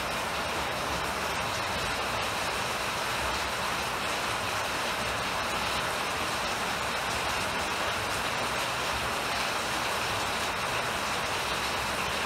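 Heavy rain falling steadily on a concrete rooftop and surrounding trees: an even, unbroken hiss with no let-up.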